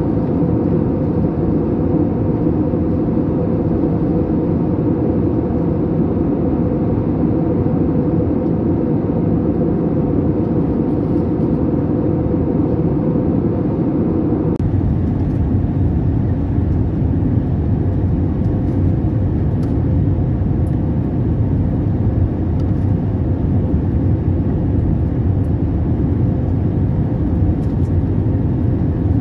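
Steady rumble of engine and airflow noise inside an airliner cabin in flight. About halfway through, the sound shifts abruptly as its middle range drops away.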